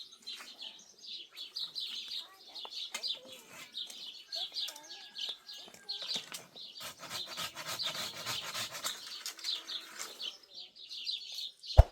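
Small birds chirping repeatedly in quick short notes, with a stretch of rustling, scraping noise in the middle and two sharp knocks at the very end.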